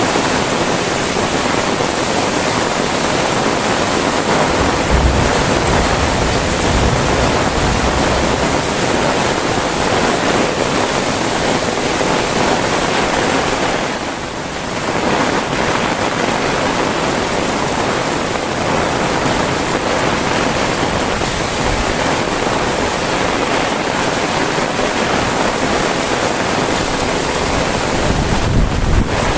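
Heavy rain falling, a dense, steady hiss that eases briefly about halfway through, with a few short low rumbles.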